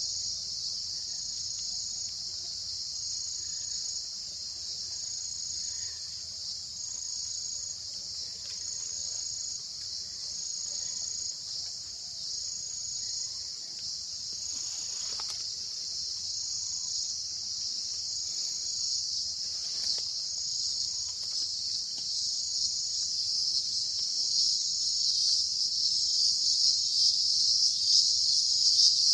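Steady high-pitched insect chorus, with one insect's call sounding in short pulses about once a second over it; the chorus grows louder near the end.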